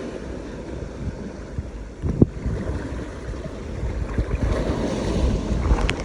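Surf washing onto the beach, with wind rumbling on the microphone; the wash builds louder in the last second or two. A single sharp knock about two seconds in.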